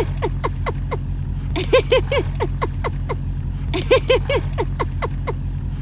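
A steady low motor drone, with a series of short pitched chirping notes that repeats three times, about every two seconds.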